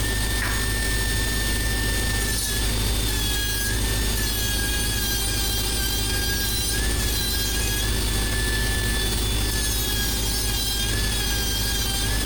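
Electric angle grinder running steadily with an abrasive pad against stainless steel plate, deburring and finishing the edges and faces. Its high whine dips slightly in pitch now and then as the pad is pressed in.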